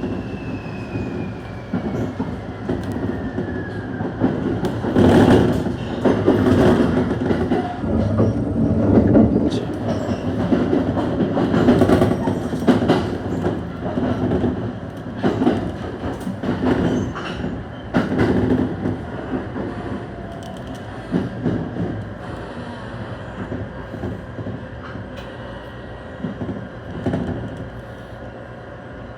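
ET127 series electric train heard from inside the car as it slows for a station: the motor whine falls in pitch over the first few seconds while the train brakes. Wheels knock and clack over rail joints and points, loudest in the middle, then the running noise dies down as the train nears a stop.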